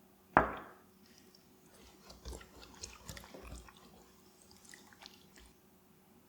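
A single knock about half a second in, then a scatter of small clicks and soft wet squishes as raw chicken is handled during preparation.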